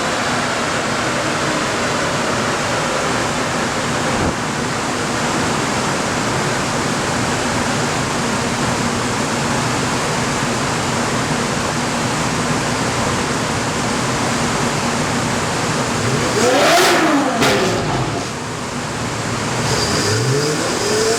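Ferrari 458 Spider's 4.5-litre flat-plane V8 running on a chassis dyno with a steady, loud roar for most of the stretch. Near the end the revs sweep up and down, then rise again.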